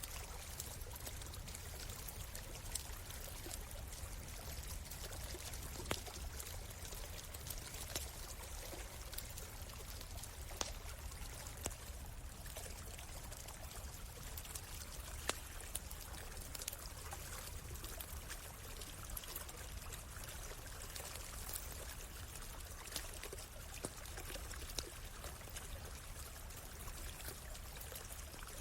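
A stream running steadily, with scattered sharp pops and crackles from a wood campfire.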